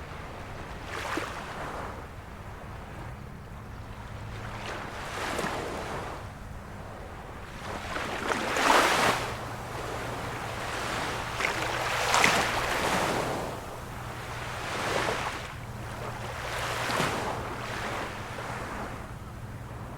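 Small waves of a calm sea washing onto the shore, a swell every second or two, loudest about nine and twelve seconds in, with a low steady hum underneath.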